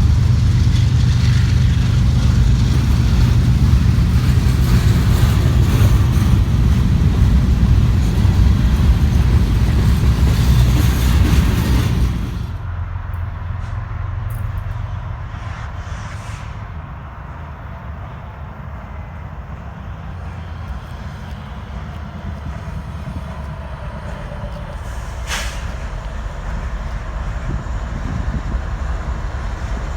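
Freight train rumbling past, with the low heavy sound of locomotive engines and rolling cars. About twelve seconds in, the sound drops abruptly to a quieter, steady train rumble, and a single sharp click comes late on.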